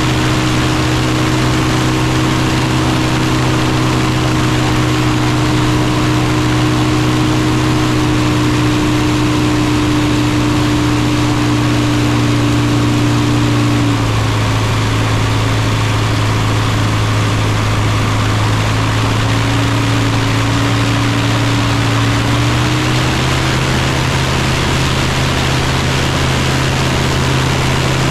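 Savannah ultralight's engine and propeller running steadily at low power. Its pitch steps down about halfway through and comes back up a little before the end as the power is changed.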